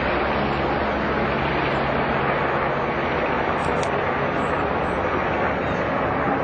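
Helicopter flying over: a steady rushing noise with a faint low hum beneath it.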